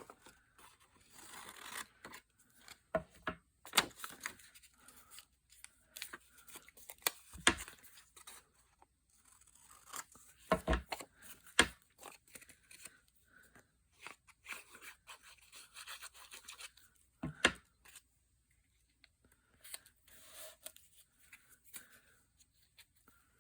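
Paper being handled and worked at a craft table: soft rustling and scraping of paper with scattered light taps and clicks, some of them sharp.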